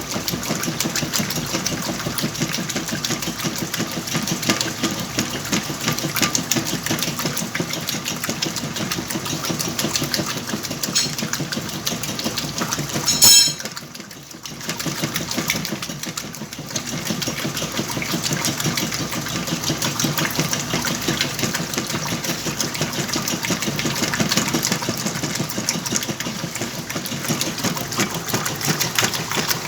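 Whirlpool washing machine running through a wash cycle with blankets, its motor and drum making a steady mechanical chatter. About 13 seconds in there is one sharp loud sound and a short lull before the running picks up again.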